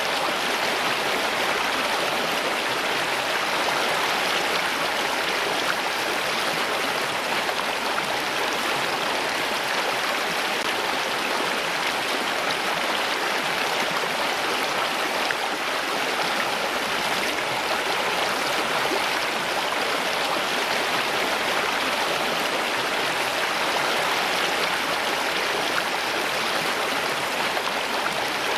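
Water flowing in a steady, unbroken rush, like a stream.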